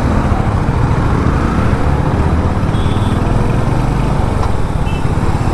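Royal Enfield Hunter 350's single-cylinder engine running steadily while the motorcycle cruises on the road, under a continuous rush of road noise.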